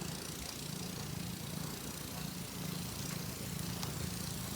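An engine running steadily, a low pulsing hum over a faint hiss.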